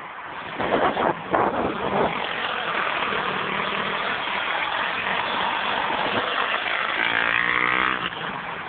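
Pit bike engine revving under a steady rushing noise, with a few sharp knocks in the first couple of seconds and a clearer engine note near the end.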